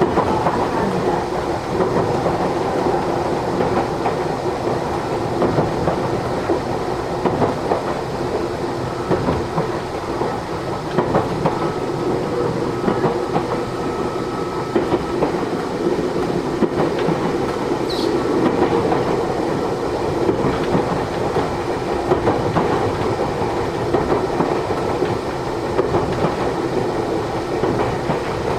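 Matsumoto Electric Railway 3000 series electric train running, heard from inside the passenger car: a steady rumble with the wheels clacking over rail joints. There is a brief high squeal about 18 seconds in.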